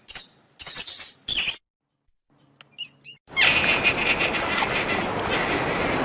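Bird chirps in several short high bursts, a brief pause, then a quick run of small high chirps. About three seconds in, a steady rushing noise takes over.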